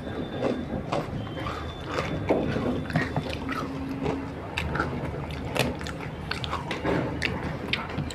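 Close-miked eating: a person chewing food, with many irregular, short, crisp crunches and mouth clicks.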